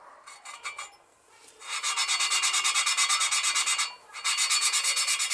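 A stainless valve being hand-lapped into its seat in a Yamaha XS650 cylinder head with fine grinding paste: a fast, even back-and-forth gritty rasping. It starts after a few light ticks, pauses briefly partway through, then carries on.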